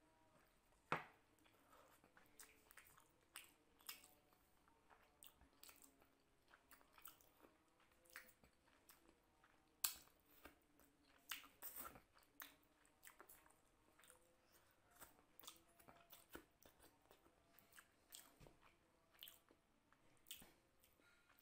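Close-miked mouth sounds of a man eating curry and rice by hand: chewing, lip smacks and licking of the fingers. They come as a string of soft wet clicks, with two sharper ones about a second in and near the middle.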